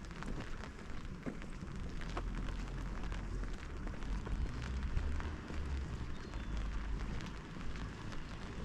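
Rain pattering, with many small sharp drop ticks over a steady low rumble.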